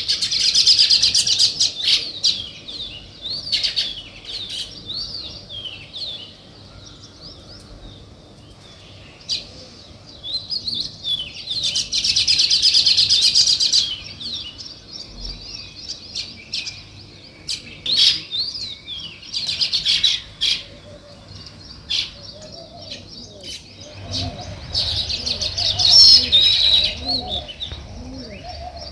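Sparrows chirping: dense bursts of rapid high chirps a few seconds long, about three times, with quieter scattered chirps between. Lower repeated cooing notes join near the end.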